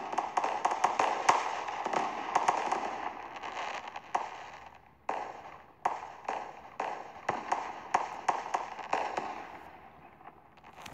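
Fireworks going off: a dense run of bangs and crackling that thins after about four seconds into separate bangs about twice a second, then fades out near the end.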